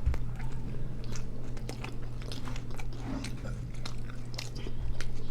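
Close-up chewing and wet mouth clicks of people eating pork adobo with rice, in irregular smacking bites.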